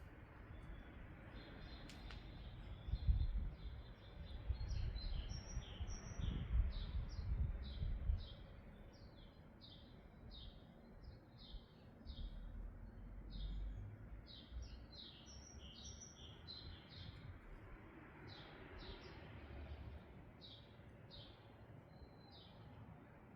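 A bird chirping over and over, short high notes a few times a second, with low rumbling and knocking underneath that is loudest for the first eight seconds.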